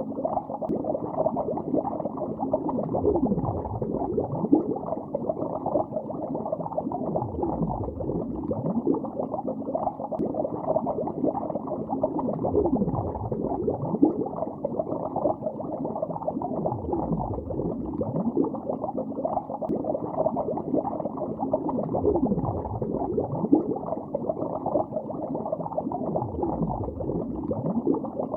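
Water bubbling heard underwater: a dense, steady stream of bubbles, dull and muffled with nothing high-pitched. A deep swoop dips and rises again about every four and a half seconds.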